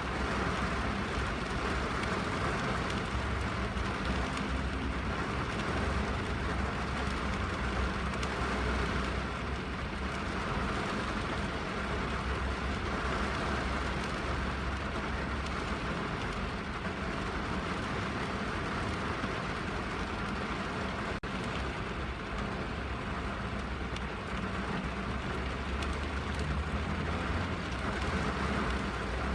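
Rain falling steadily on a car's roof and windows, heard from inside the cabin, over a constant low rumble.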